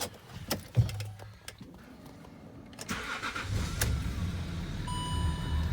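Land Rover Discovery 3's 2.7 TDV6 V6 diesel engine being started: a few clicks and a thump with a short low hum in the first second and a half. About three seconds in, the engine catches and settles into a steady idle. A brief electronic beep sounds near the end.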